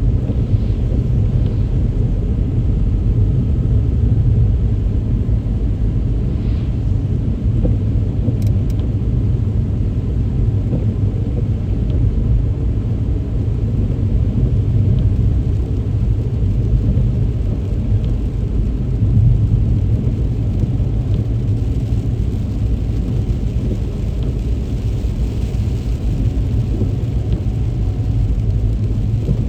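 Car driving steadily: a constant low rumble of road and engine noise, even in level throughout.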